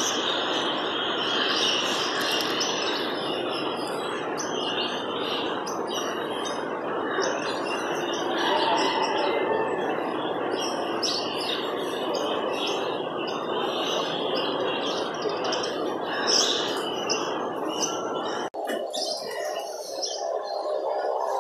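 Small birds chirping over a steady, noisy background. Near the end the background changes abruptly and its low end drops out.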